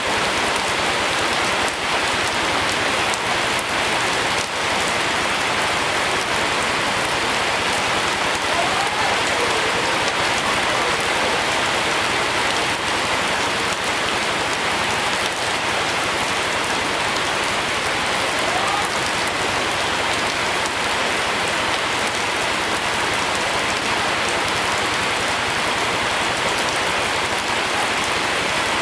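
Steady rain falling, an even, continuous hiss of drops with no letup.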